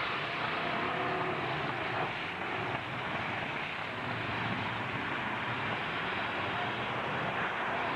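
Demolition-derby truck engines running, a steady noisy din.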